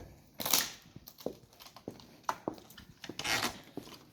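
Pieces of firewood being handled and stacked, with a few sharp wooden knocks and short scraping rubs.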